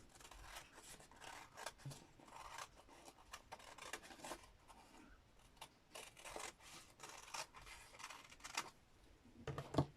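Scissors cutting paper, a run of short, faint snips and paper rustles.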